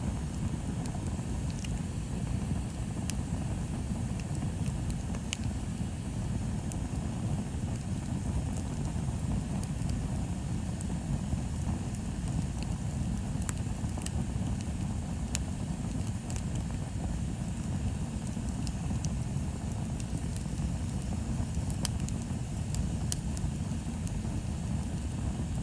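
Bonfire burning: a steady low rumble with scattered sharp crackles and pops from the burning wood at irregular intervals.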